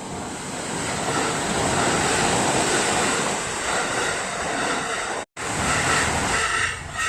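A Kintetsu Osaka Line train passing over a level crossing: a loud, steady rushing noise that swells over the first couple of seconds and cuts off abruptly about five seconds in. Near the end, the level crossing's warning bell starts ringing in a quick repeating rhythm.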